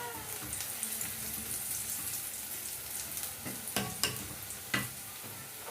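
Onions frying in oil in a pan, sizzling steadily, with a few sharp taps against the pan between about three and five seconds in.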